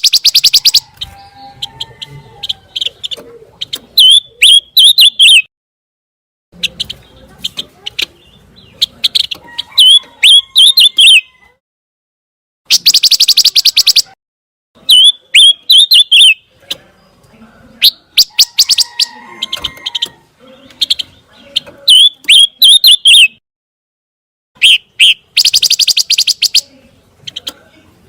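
Bird the keepers call pancawarna singing in loud bursts of sharp, high chirps and fast buzzy trills. The bursts come every few seconds with short pauses between them.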